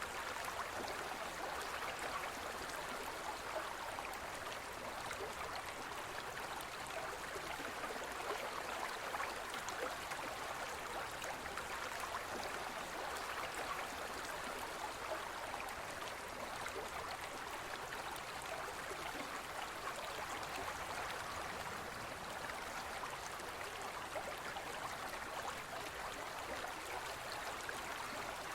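Small forest river or stream flowing over rocks, a steady rushing and babbling of water.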